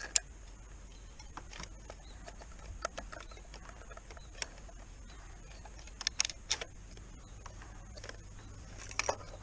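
Scattered sharp clicks and light knocks of gear being handled, a few at a time with quiet gaps between, over a faint steady high-pitched hiss.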